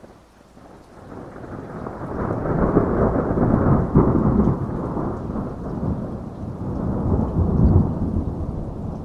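A rolling thunder rumble over steady heavy rain. It builds from about a second in, swells twice, around four seconds in and again near the end, and then eases off.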